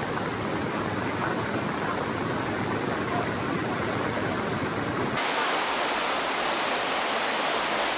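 Steady rushing of water, a dense even noise with no distinct events, with an abrupt change in its tone about five seconds in.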